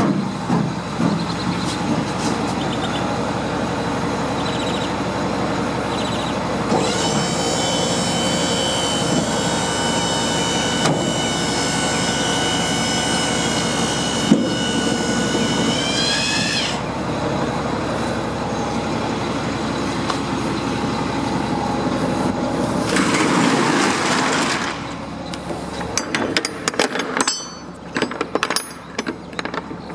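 Box-truck liftgate being operated. Its electric hydraulic pump runs with a steady whine for about ten seconds, rising in pitch just before it cuts off. A short hiss follows, then a series of metal clanks and knocks as the gate is moved and stowed.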